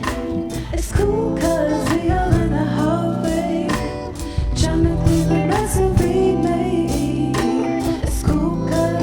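A live band playing, with a singer, guitar and drums.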